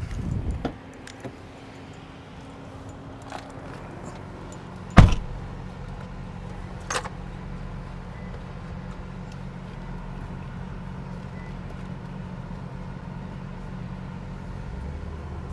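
A car engine idling steadily with a low hum. One sharp knock comes about five seconds in, and a fainter click about two seconds later.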